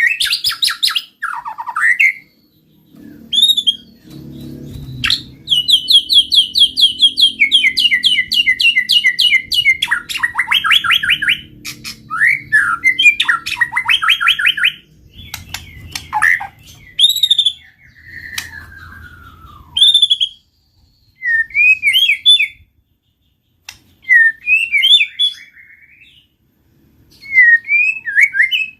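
White-rumped shama singing in full voice: loud, varied phrases of rapid trills and slurred whistles broken by short pauses. A faint low rumble runs underneath during the first half.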